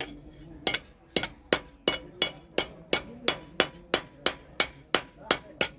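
Hammer striking steel on an anvil in a steady rhythm, about three blows a second, each with a bright metallic ring.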